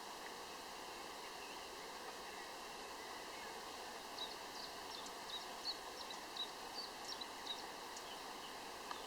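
Outdoor countryside ambience: a steady background hiss with a bird calling in short, quick high chirps from about four seconds in.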